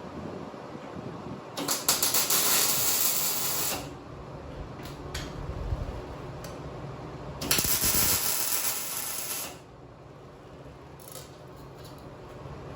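Arc welding on steel tubing: two bursts of crackling sizzle, each about two seconds long and about six seconds apart, with a few light clicks between them.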